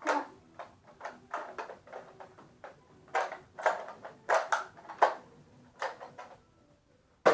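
Irregular plastic clicks, clunks and sliding knocks, about a dozen over several seconds, from foam-dart Nerf blasters being handled and primed.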